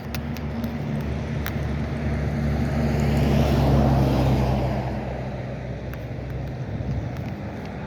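A motor vehicle passing by on a road: a low engine hum and tyre noise that grow louder to a peak about four seconds in, then fade.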